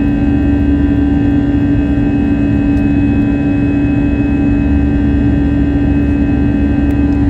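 Airbus A321 cabin noise in flight: steady jet engine and airflow noise with a constant hum tone, heard from a seat forward of the wing.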